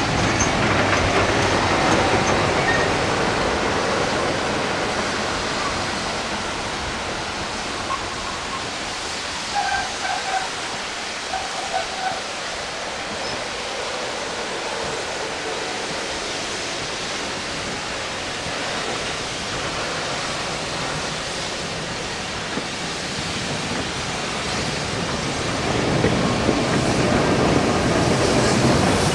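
Railway coaches rolling past at close range: a steady rush of wheels on rail that eases off mid-way, then grows louder near the end as the rear steam locomotive's tender comes alongside. A few short squeals are heard about a third of the way in.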